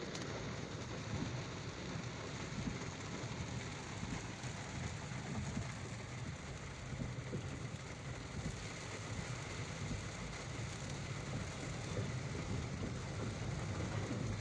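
Heavy rain falling steadily, with a faint low hum underneath.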